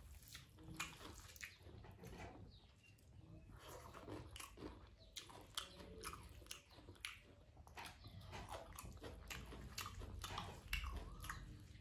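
A person chewing a mouthful of rice and greens close to the microphone. Wet mouth clicks and smacks come several times a second, irregularly.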